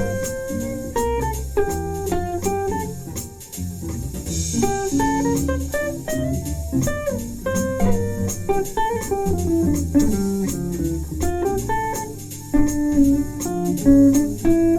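Jazz guitar playing a flowing single-note melody line over a walking bass accompaniment, as a soundcheck through a street performer's amplifier setup.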